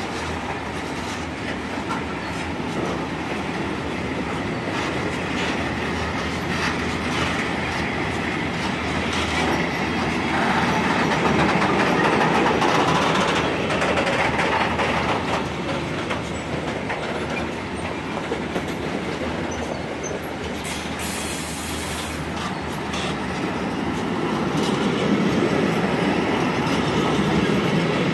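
Freight train wagons rolling past: a steady rumble of steel wheels on rail with repeated clicks and clacks over the rail joints, louder about a third of the way in and again near the end.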